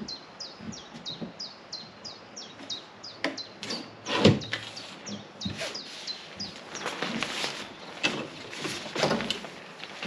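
A small bird repeating a quick, high, downward-sliding chirp about three times a second. About four seconds in there is a loud knock as a telescopic pole of the boat's shade frame is handled. Near the end the sheet of the shade rustles as it comes down.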